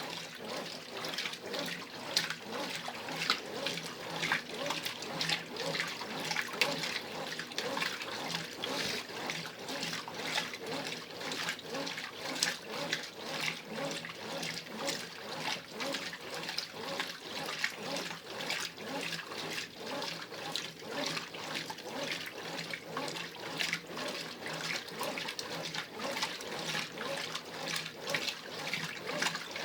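Brastemp Ative! 11 kg top-load washing machine in the first wash agitation of its heavy cycle: water and laundry sloshing in the tub in quick, repeated surges as the agitator works back and forth.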